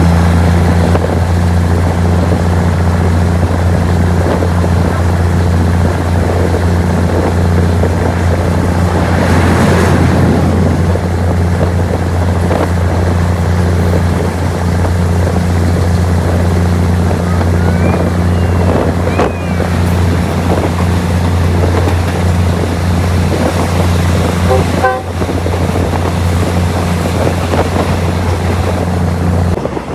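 Steady low drone of the diesel passenger train being ridden, heard through an open carriage window, with a passing train rushing by about ten seconds in. The drone stops abruptly near the end.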